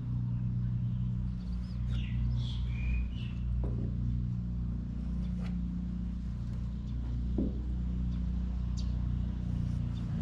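A steady low mechanical hum, like an engine or motor running, with a bird chirping a few times about two seconds in and a few faint clicks.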